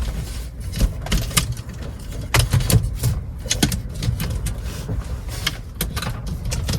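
Strong gale wind buffeting a kei-truck camper, a continuous low rumble with irregular knocks and rattles from the shell.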